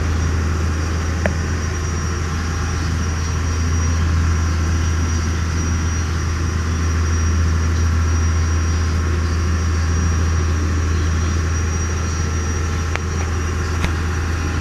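Sport-fishing boat's engine running steadily: a deep, even drone.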